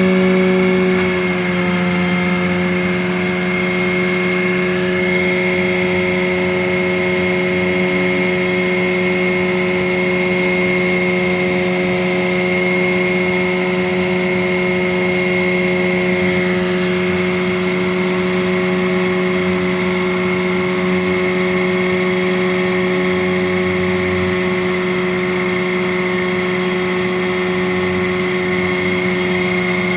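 An engine running steadily at a constant speed, with a slight drop in pitch about a second in.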